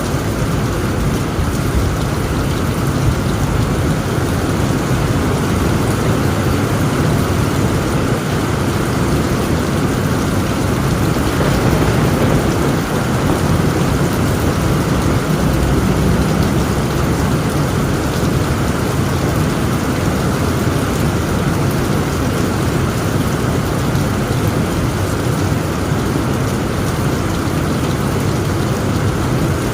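Heavy rain drumming steadily on a tent roof, with a low rumble of thunder swelling about halfway through.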